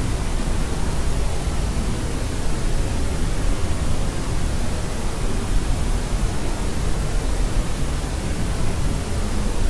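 Steady white noise for infant sleep: an even, unbroken hiss weighted toward the low end, with no changes.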